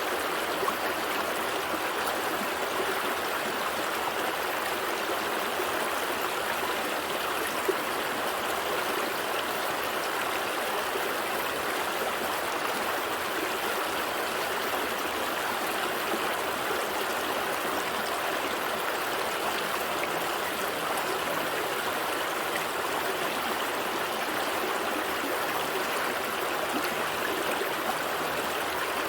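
A gentle stream flowing steadily, water trickling and babbling over stones.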